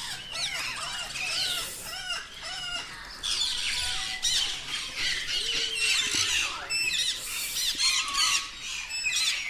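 A flock of parrots calling at once: a dense, overlapping chatter of squawks and short chirping calls that sweep up and down in pitch, with louder squawks now and then.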